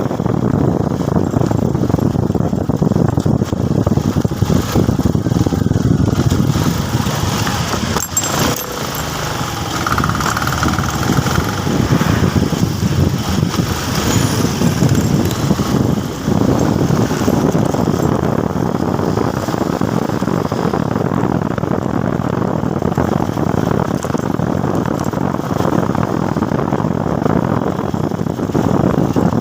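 Motorcycle engine running with road noise while riding, a steady rumble with brief dips about eight and sixteen seconds in.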